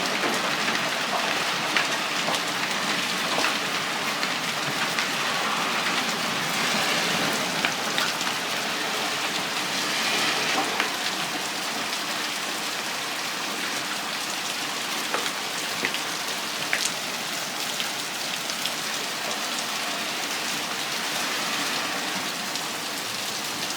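Hail coming down hard: a dense, steady patter of hailstones and rain striking surfaces, with many sharper individual clicks of stones hitting.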